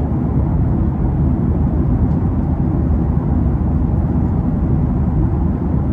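Airliner cabin noise: a steady, loud low rumble of the engines and rushing air, with no breaks or changes.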